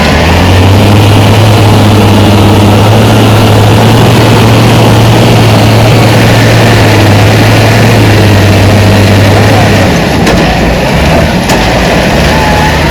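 Heavy diesel engine of earthmoving or haulage machinery running steadily with a deep, even drone. About ten seconds in, the drone breaks off and the sound turns rougher and uneven.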